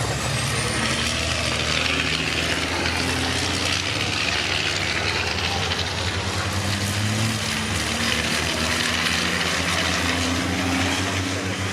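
Racing trucks' diesel engines running past on the circuit: a steady mechanical drone that swells and fades as the trucks go by.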